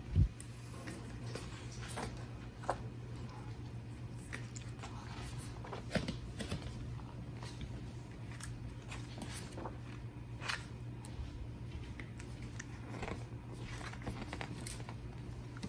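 Packaging and printed photos being handled: light crinkling of plastic and paper with scattered small clicks and taps, over a steady low hum. A soft knock comes right at the start.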